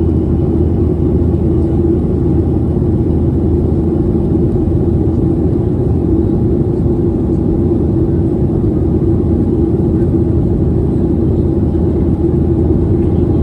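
Steady jet airliner cabin noise during the climb: engine and rushing-air roar with a constant low hum.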